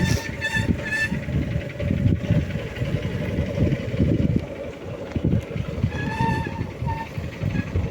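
Vehicle engine and road rumble, with a horn honking in short repeated beeps at the start and again about six seconds in.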